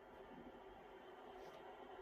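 Near silence: faint steady room hiss, with one faint click about a second and a half in.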